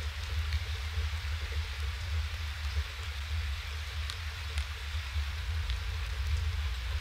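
Steady rain hiss through an outdoor webcam's microphone, with a few faint drop ticks. A constant low rumble runs underneath.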